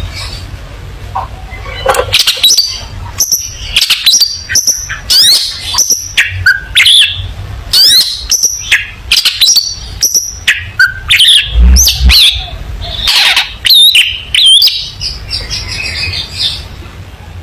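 Long-tailed shrike (cendet) singing a fast, varied song of sharp chirps, short whistles and scratchy notes, over a steady low hum.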